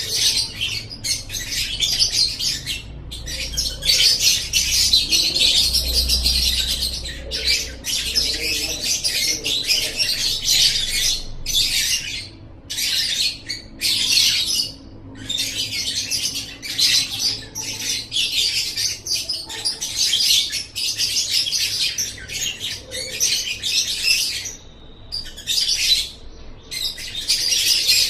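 Lovebird singing in long, rapid, high-pitched chattering phrases, each several seconds long, broken by short pauses.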